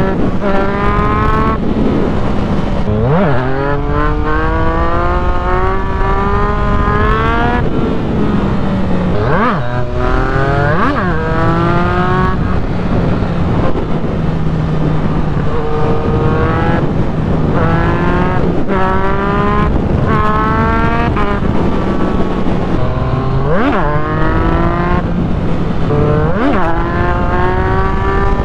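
Yamaha MT-09's three-cylinder engine with a full aftermarket exhaust accelerating hard through the gears, its pitch climbing and then dropping at each quickshifted upshift, pull after pull, over wind rush. A steadier low engine hum runs underneath.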